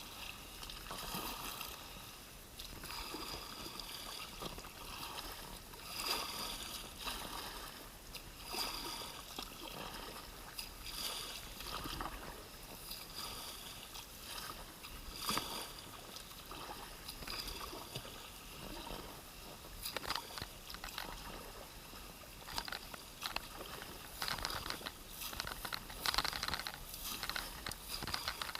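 Kayak being paddled through a narrow creek: irregular paddle splashes and water sloshing and gurgling around the hull.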